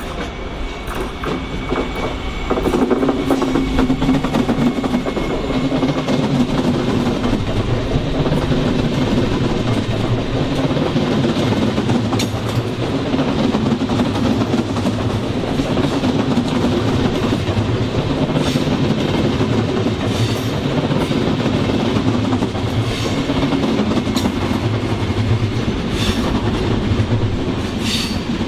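A train running past on the track, its noise swelling about two and a half seconds in and then holding loud and steady, with a regular pulsing beat from the wheels and occasional sharp ticks.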